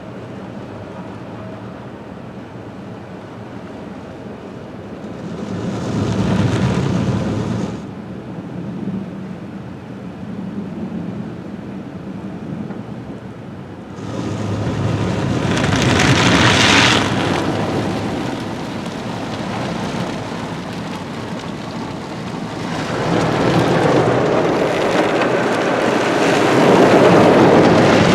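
Water jets of a Mark VII rollover car wash spraying onto the car, heard from inside the cabin as a rain-like rush on the body and glass. It swells three times, about five seconds in, about fourteen seconds in, and again from about twenty-three seconds in, as the gantry's spray passes over.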